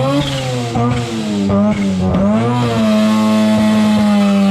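Car engine revved hard during a skid, its pitch swinging up and down several times and then held high and steady for the last second and a half, with tyre noise beneath.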